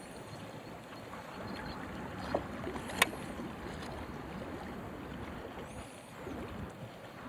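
Steady wind noise with water lapping at the waterside. There is a small knock a little over two seconds in and a sharp click just after three seconds.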